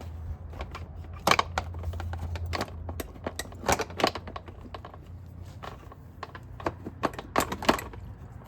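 Irregular clicks and knocks of plastic and metal as the dirt bike's gas tank and plastics are tugged and wiggled; the tank won't come free because one bolt is still in. A low steady hum runs under the first few seconds.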